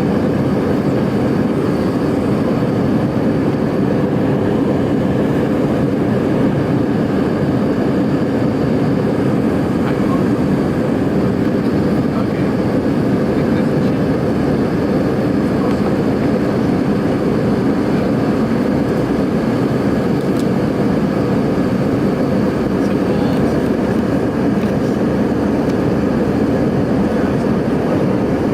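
Steady, unchanging cabin noise inside an Airbus A319 in flight: the jet engines and the rush of air over the fuselage, heard from a rear window seat as a low, even roar.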